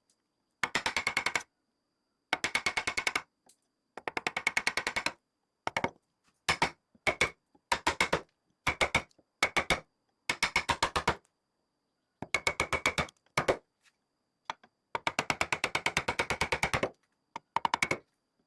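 Rapid, evenly spaced mechanical clicking, more than ten clicks a second, in bursts of about half a second to two seconds separated by complete silence.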